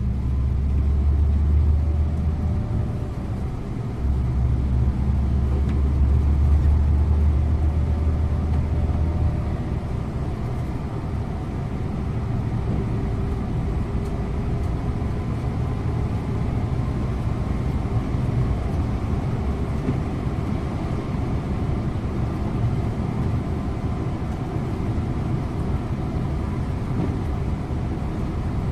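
Scania InterLink bus engine and road noise heard from the driver's seat: the engine pulls strongly for the first nine seconds or so, with a brief dip about four seconds in, then settles to a steady cruise.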